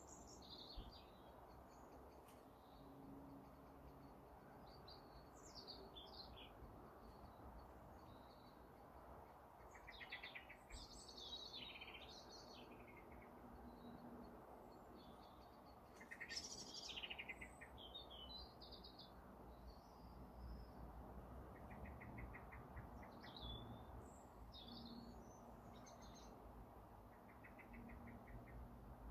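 Faint birdsong: scattered high chirps and short trills, loudest about ten and sixteen seconds in, over a low background hiss.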